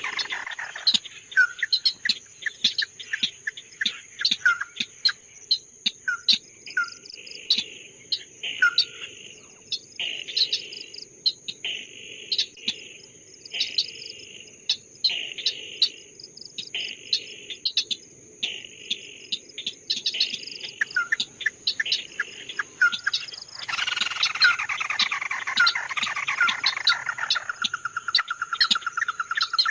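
A songbird calling: a stream of sharp short chirps and harsh rasping notes, ending in a fast trill. A steady high insect-like whine runs underneath.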